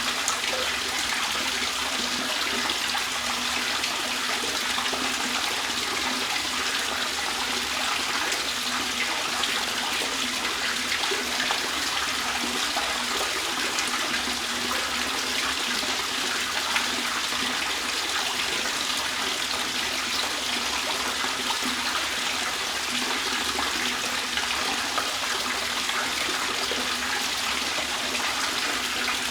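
Water trickling and splashing steadily, an even unbroken rush with no pauses.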